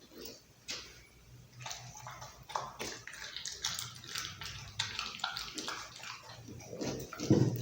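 Pit bull chewing raw chicken: wet, irregular chewing with many small clicks, growing busier after the first couple of seconds, and a louder low sound near the end.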